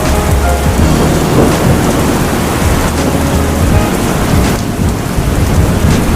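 Heavy rain falling steadily, with a deep low rumble of thunder underneath.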